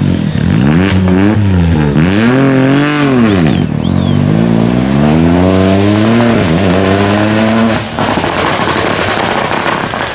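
Rally car engine at full stage pace: the revs climb and fall around two to three seconds in, climb again through the middle, and cut off sharply about eight seconds in as the driver lifts, the car still audible afterwards.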